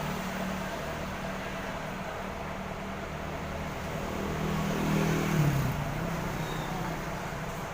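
Diesel bus engine running, growing louder about five seconds in and then dropping in pitch as the revs fall.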